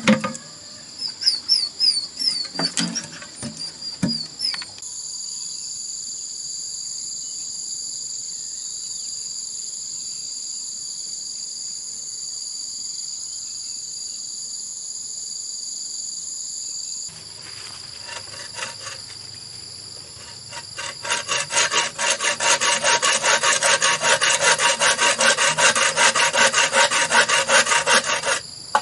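A hand tool works bamboo with quick, even rasping strokes, a long run of them near the end and a few at the start. In the middle, insects keep up a steady high-pitched drone.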